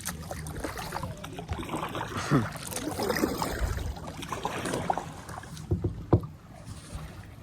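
Kayak moving on a river: paddle strokes and water splashing, with rustling and short knocks against the hull, the sharpest knock about six seconds in.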